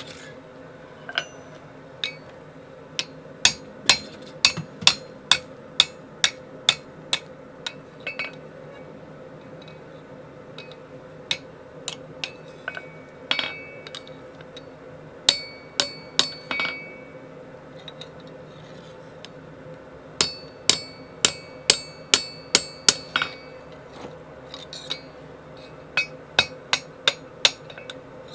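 Hammer blows striking steel with a bright metallic ring, in runs of several strikes at about two a second, broken by pauses of a few seconds. A steady low hum runs underneath.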